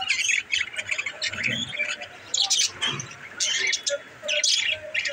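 Pet budgerigars chirping and chattering, a busy run of quick, high chirps and short warbled notes.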